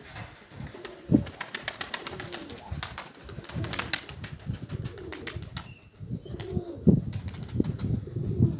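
Domestic pigeons cooing repeatedly in low, rolling calls, with a stretch of rapid clatter between the first and fifth seconds.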